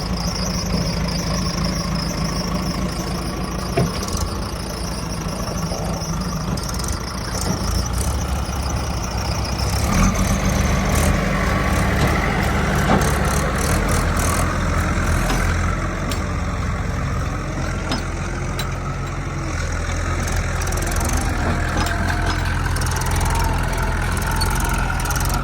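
Heavy diesel engine of a working machine running steadily, growing louder about ten seconds in as it is worked harder.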